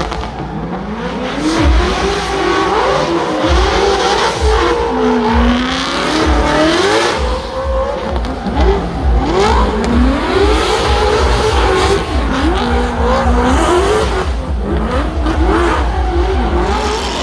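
Race car engine revving hard, its pitch rising and falling again and again every second or two, over a haze of tyre noise.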